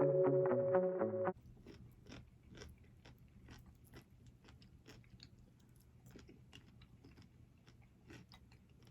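A burst of music that cuts off suddenly about a second in, followed by close-up biting and chewing of a burger and fries: a quick run of small crunches and clicks from the mouth.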